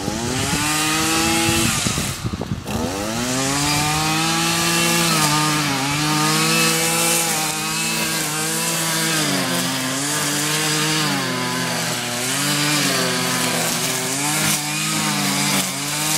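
Lawn mower engine running, revving up at the start, dropping off briefly about two seconds in, then picking back up and running on with small rises and dips in speed.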